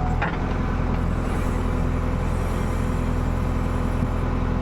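Diesel engine of a JCB digger running steadily at constant speed, with an even low hum.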